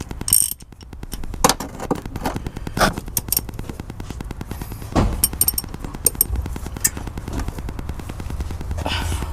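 Rapid metallic clicking with a few louder knocks: a hand wrench working at a BMW E46's transmission fill plug, which is stuck.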